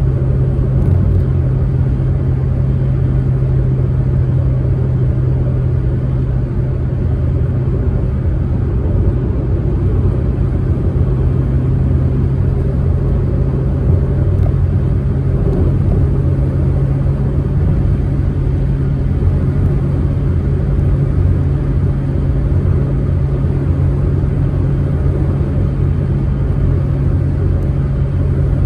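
Proton Saga MC2's four-cylinder engine running at a steady pitch with low road rumble, a car cruising at constant speed.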